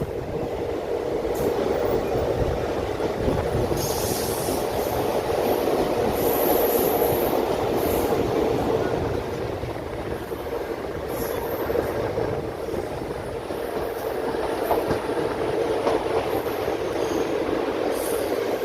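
Passenger train running along the track: a steady rumble of wheels and coach with a constant hum through it, swelling a little and easing off around the middle.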